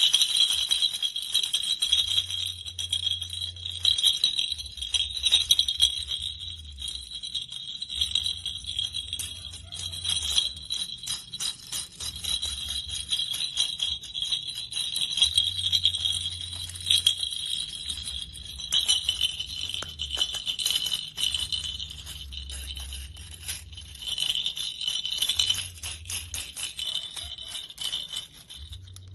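Small jingle bells on a toy being shaken, jingling continuously with dense tiny clicks.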